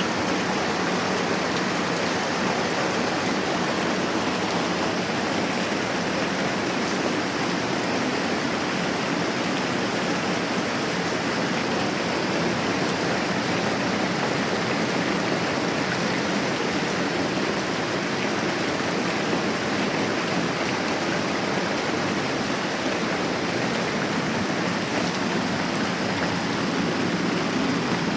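Moderate rain falling steadily, an even wash of sound with no breaks or swells.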